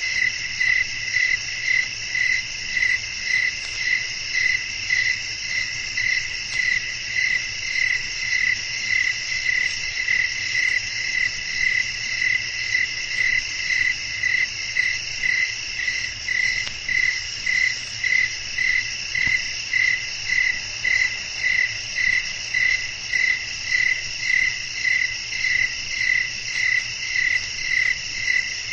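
Night-time crickets chirping: one loud, even chirp repeating about three times every two seconds over a steady, higher-pitched insect drone.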